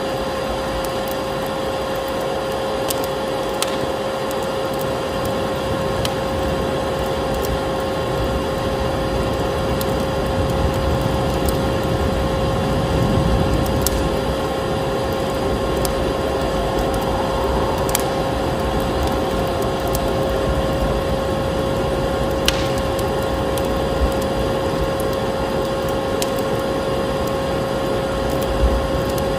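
A vacuum cleaner running with a steady hum and whine, laid over a wood fire crackling, with a few sharp pops scattered through.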